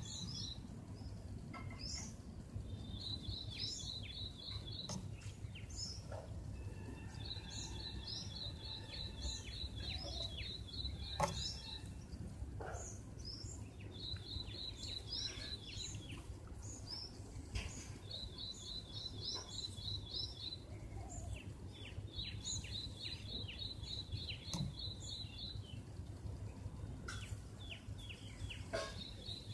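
Birds singing: a trill of quick repeated notes comes in phrases of one to four seconds, six or so times over, among scattered short chirps, over a low steady hum.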